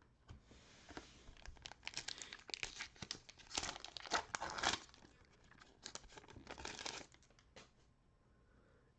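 Plastic cello-pack wrapper of trading cards being torn open and crinkled, a run of crackles and rustles that is loudest about halfway through and stops about a second before the end.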